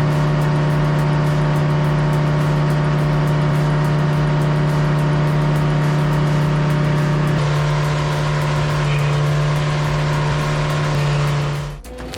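Homemade sawmill running steadily under power, its motor holding one strong, even pitch that steps down slightly twice, then cutting off suddenly near the end.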